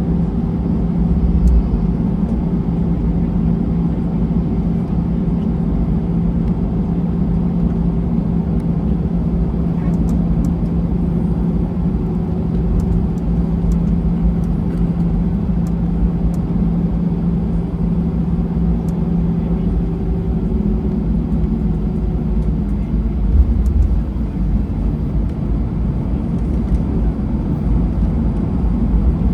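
Airliner cabin noise while taxiing: a steady engine hum over a low rumble from the rolling aircraft, with a couple of brief bumps. The hum's tone fades out about two-thirds of the way through.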